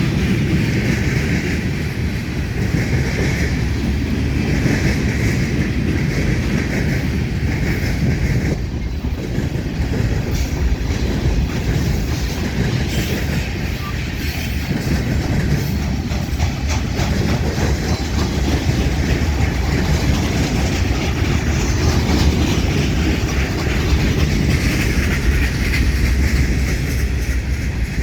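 Freight train cars rolling past steadily, their wheels clattering over a railroad diamond crossing.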